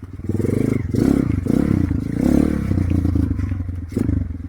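Motorcycle engine running with the throttle opening and easing off in swells, with some clattering.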